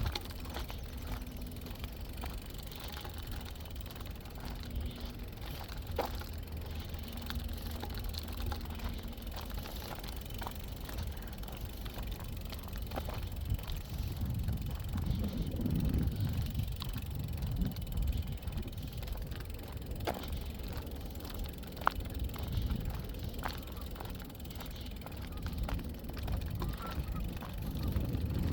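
A bicycle being ridden along a path: a steady low rumble of wind and tyres on the microphone, with scattered light clicks and rattles.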